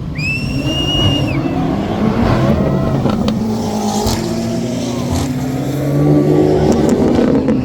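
BMW car engine running and revving, its pitch slowly climbing over several seconds. A high whistle lasts about a second at the start.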